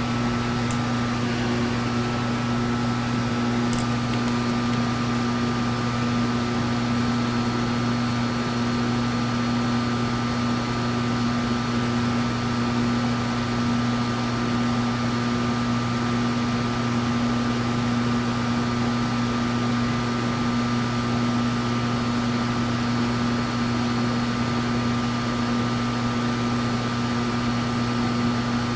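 Machine tool running steadily under power with a constant electric hum while a cutting pass is taken on the stern tube.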